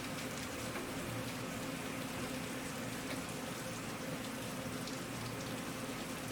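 Steady rain falling, with many small individual drop hits heard as fine ticks over an even hiss. A faint low hum lies underneath.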